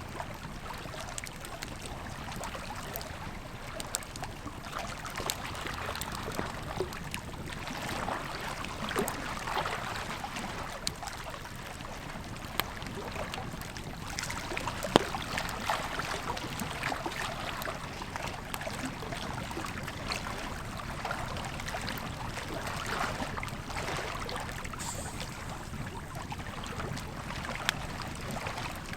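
Wood campfire crackling, with scattered sharp pops, the loudest about fifteen seconds in, over the steady rush of a flowing river.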